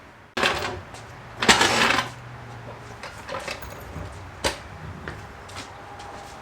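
Sudden clatter and rattling, loudest about a second and a half in, over a low steady hum that stops about three seconds in, followed by a few scattered knocks.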